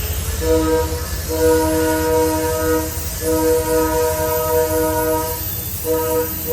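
Locomotive multi-note air horn sounding a sequence of blasts: a brief toot, two long blasts, a short one, then a final long blast that begins near the end. This is the long-long-short-long grade-crossing warning, over the low rumble of the approaching train.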